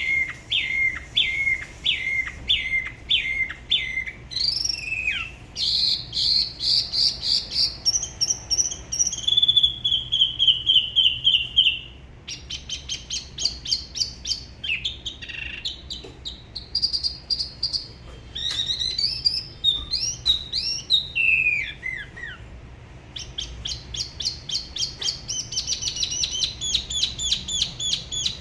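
Spot-throated babbler singing a long varied song: runs of quick repeated whistled notes, each run in a new pitch and pattern, switching every few seconds.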